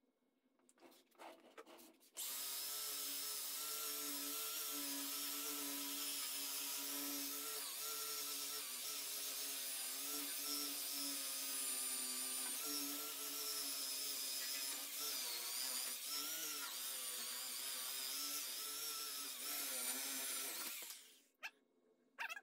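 Electric polisher motor running steadily with a high whine, its pitch wavering slightly as it works the panel; it starts abruptly about two seconds in and stops near the end.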